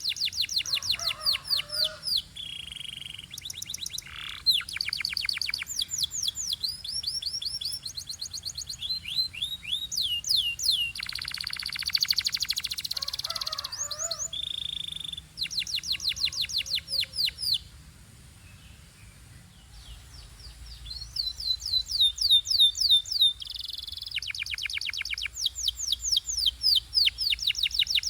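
Canary singing: a run of trills, each made of quick repeated high notes, switching from one phrase to the next. Near the middle there is a harsher buzzy rattle, and just past halfway a short lull before the song resumes.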